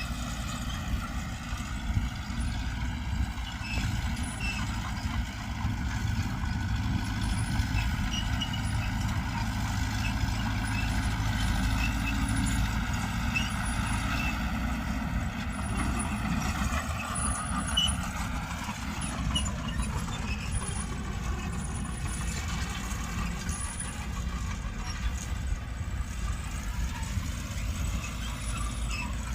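Diesel engines of heavy earthmoving machinery, a bulldozer and dump truck, running steadily, with a shift in engine pitch a little past halfway.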